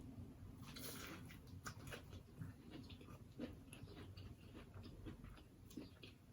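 Faint close-up chewing and mouth sounds of a person eating, with scattered small wet clicks and smacks and a brief crunch about a second in.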